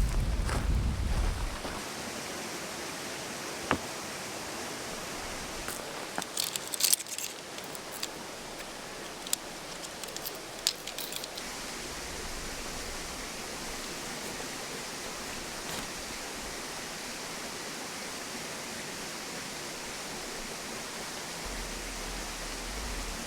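Mountain stream babbling steadily. A low rumble runs through the first second or so, and a flurry of light, sharp clinks and clicks comes between about 6 and 11 seconds in.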